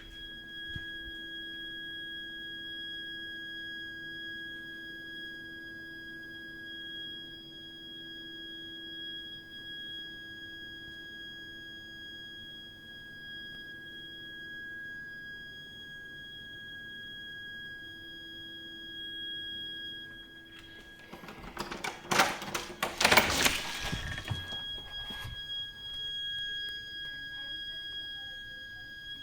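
Heating system's heat interface unit (HIU) and pipework giving a continuous shrill, high-pitched shriek: one steady whistle-like tone with a fainter low hum beneath, the sign of an abnormal plumbing fault that persists even when heating and hot water are not in use. About 21 seconds in, a loud rustling noise lasts about four seconds and covers the tone.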